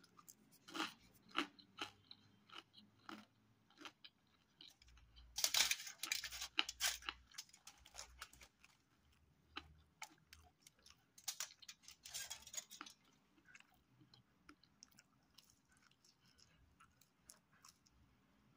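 A person chewing and crunching pizza: a scatter of short crunches and mouth clicks, with two louder runs of crackling about five and eleven seconds in.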